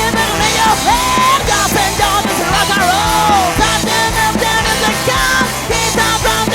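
Rock song with vocals over a steady beat, full band playing loudly.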